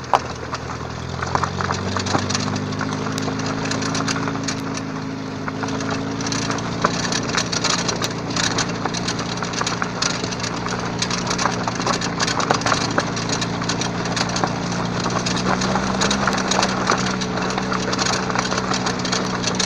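Moskvich 2141 brake caliper knocking: dense, irregular sharp clicks and knocks over the hum of the car's engine, which rises in pitch about two seconds in and then holds steady. The knock is the fault being shown.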